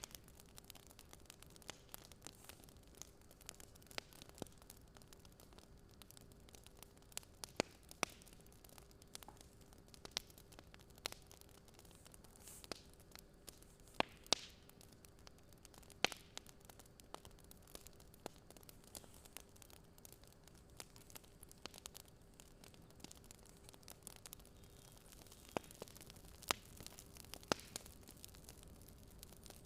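Wood fire crackling: irregular sharp pops and snaps over a low hiss, with a faint steady hum underneath.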